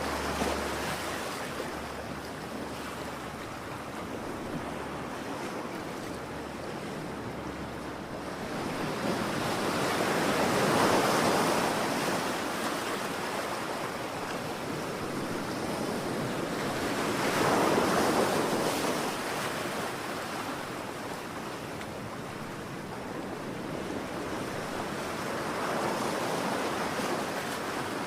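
Ocean waves breaking and washing on the shore in a steady rush, swelling to a peak about every seven seconds.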